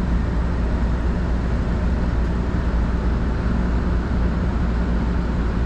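Keio Sagamihara Line commuter train running along the line, heard from inside the carriage: a steady low rumble of wheels on rails and running gear.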